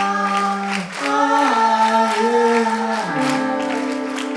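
A group of voices singing the long held closing notes of a song, the chord changing about a second in and again near three seconds, over a light steady beat.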